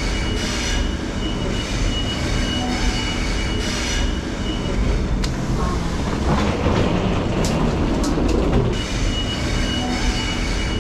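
Electric passenger train running on the rails: a steady rumble with a high whine that pulses about once a second. From about six seconds in, a louder rush of wheel and rail noise with a few sharp clicks.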